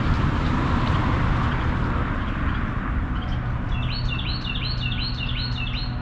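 Steady low outdoor rumble, with a songbird starting up past the halfway point and repeating a quick falling chirp about three times a second to the end.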